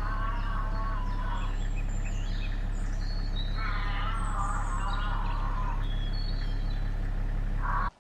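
Birds calling over a steady low hum: a warbling call twice, with a brief third one near the end, and thin high chirps in between. The sound cuts off abruptly near the end.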